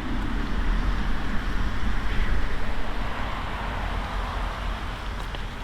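Wind buffeting the microphone with road noise from a moving bicycle: a steady low rumble under a rushing hiss.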